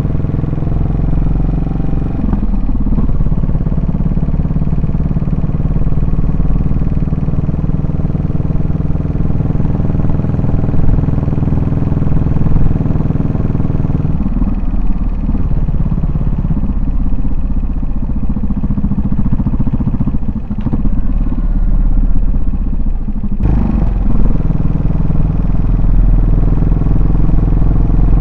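Yamaha SR400's air-cooled single-cylinder engine and exhaust on the move, holding a steady note for about half the time, then easing off for several seconds, then coming back strongly all at once about three-quarters of the way in as the throttle opens again.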